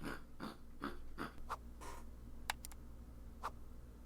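Faint typing taps and clicks, a handful spaced irregularly, over a low steady hum.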